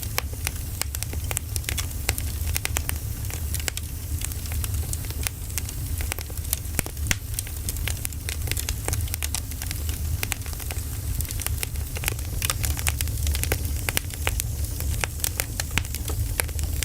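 Wood fire burning, with dense irregular crackles and pops over a steady low rumble.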